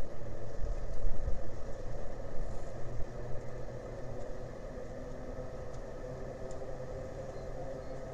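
An engine running with a steady hum, and a low rumble that swells for the first few seconds, then settles to an even drone.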